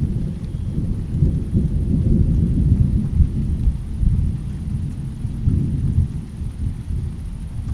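Low rolling thunder rumbling through a rainstorm, swelling over the first few seconds and again briefly near the end, with only a faint hiss of rain above it.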